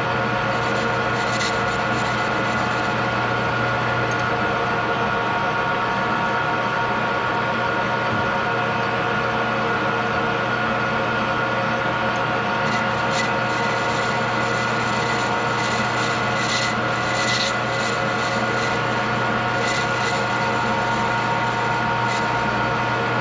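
Metal lathe running steadily while turning a step in a steel part, with a few brief higher scraping sounds of the tool cutting.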